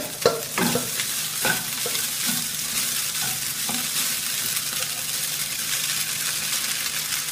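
Chicken and vegetables sizzling in a hot, oiled kadai as chilled cooked rice is tipped in and stirred with a metal spatula. The sizzle is steady, with a few short scrapes of the spatula in the first couple of seconds.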